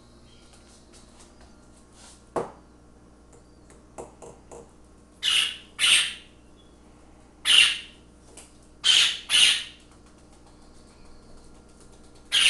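Baby Princess of Wales parakeet giving six harsh squawks, singly and in pairs, from about five seconds in: a hungry chick's begging calls for its hand-feeding formula. A sharp knock sounds a couple of seconds in.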